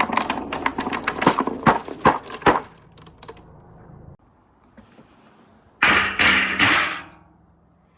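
Marbles rolling and clattering down a marble run track: a dense rattle of clicks for the first couple of seconds, a few single clicks, then a loud burst of clattering about six seconds in.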